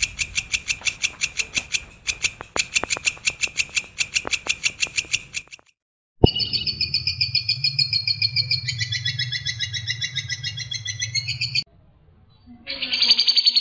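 Recorded songbird song spliced together: first a fast run of sharp repeated chirps, about five a second, then after a brief break a trilling, layered song over a low hum, and near the end another dense high trill begins.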